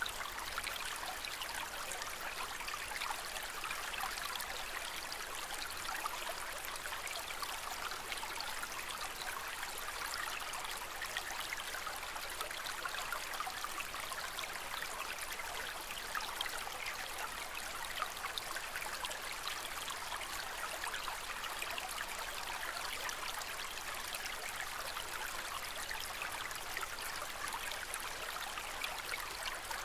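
Steady gentle trickling and bubbling of aquarium water, like a filter outflow or aerator stirring the surface.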